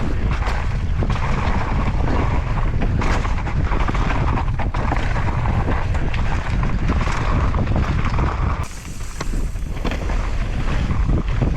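Wind rushing over the microphone, with tyre noise and many short rattles and knocks from a Devinci Chainsaw downhill mountain bike ridden fast over rough trail. The noise dips briefly about nine seconds in, then comes back.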